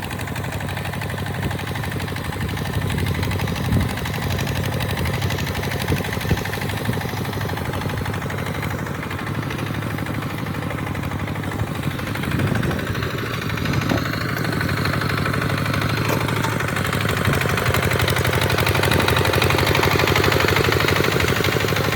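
Tractor engine running steadily with a rapid, even firing beat, growing a little louder in the last few seconds.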